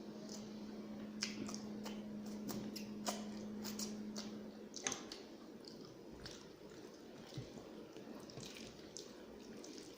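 Close-up eating sounds: wet squishing, smacking and chewing of mouthfuls of rice and curry, in irregular clicks. A faint steady low hum under it stops about five seconds in.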